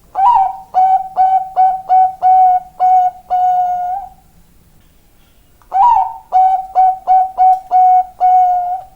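Zebra dove (Thai 'Bangkok' perkutut) singing: two phrases of quick, clipped coos, the first of about eight notes at the start and the second of about seven notes beginning about six seconds in, each phrase ending on a longer held note.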